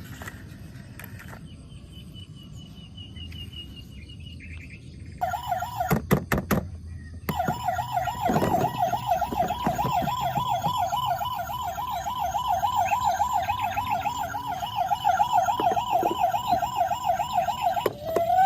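Toy vehicle's electronic siren: a fast, steady warbling wail that starts about five seconds in. It is broken soon after by a few sharp clicks, then runs on unchanged.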